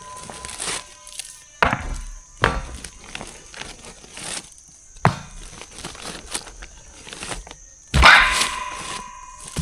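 Building-work noise: sharp knocks spaced a second or more apart, then a louder burst near the end that leaves a steady ringing tone for a second or so.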